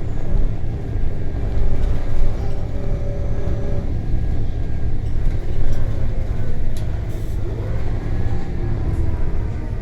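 Scania OCS9 compressed-natural-gas engine and drivetrain of a Scania L94UB bus, heard from inside the bus while it drives. It makes a steady heavy low rumble with faint tones above it that shift in pitch.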